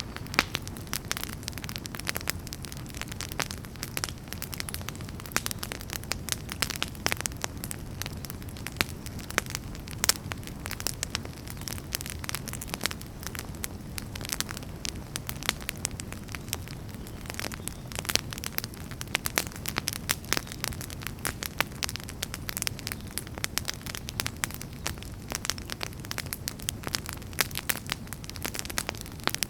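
Wood fire burning in a fireplace: a steady low rumble of flames with many sharp crackles and pops, several a second.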